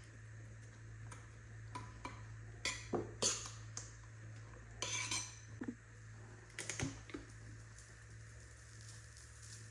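Metal utensils clinking and scraping against dishes in a kitchen: a few short clusters of clinks rather than a steady rhythm, over a steady low hum.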